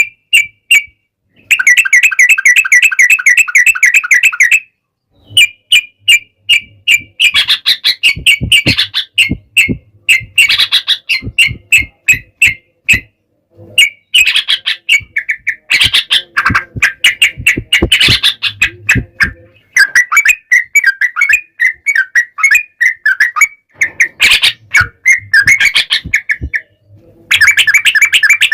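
Yellow-vented bulbuls singing in loud, rapid bubbling bursts, with a long unbroken trill near the start and shorter chattering phrases after. This is the fast, extended 'ropel' song of birds sparring.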